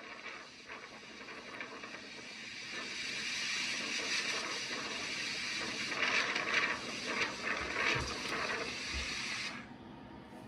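Tornado wind rushing over a camera microphone: a dense noise that swells about three seconds in, surges in gusts, and cuts off suddenly near the end.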